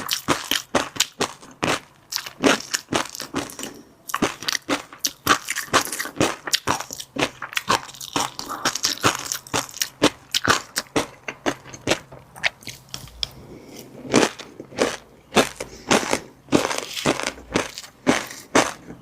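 Close-miked ASMR chewing of fish roe and crunchy seafood topping: rapid, irregular crunches and pops, several a second, easing off briefly about two-thirds of the way through.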